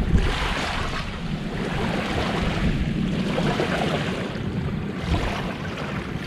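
Gentle sea waves washing onto a beach in a steady hiss that swells and eases, with low wind rumble on the microphone.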